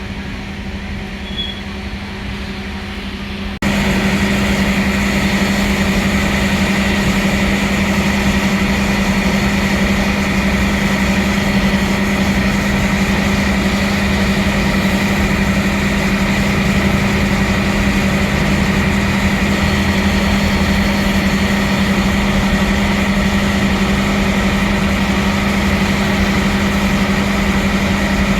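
Steady hum of the train's machinery, like a diesel engine idling. It jumps suddenly to a much louder, even drone about three and a half seconds in.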